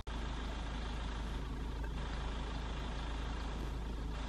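Steady low rumble of a vehicle's engine idling.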